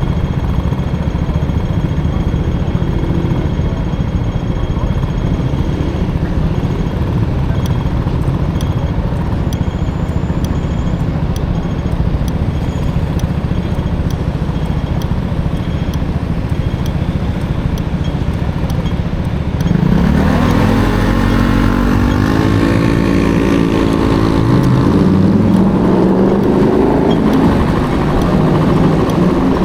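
Honda Motocompo's swapped-in Honda Dio two-stroke scooter engine running under way, under a steady rumble of wind and road noise. About twenty seconds in, the engine note stands out and climbs and falls twice as it accelerates.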